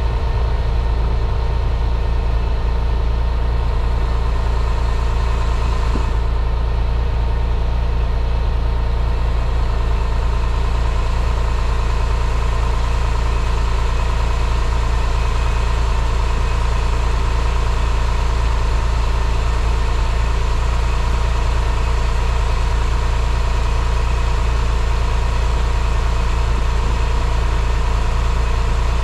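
2000 Porsche 911's flat-six engine idling steadily after a cold start.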